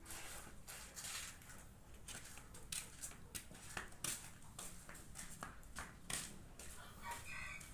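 Scattered soft taps and scuffing noises at irregular intervals. Near the end a rooster starts to crow.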